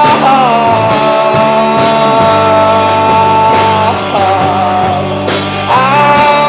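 A rock band playing live, with guitars and drums, while the singer holds a long sustained note for a few seconds. Shorter held notes follow.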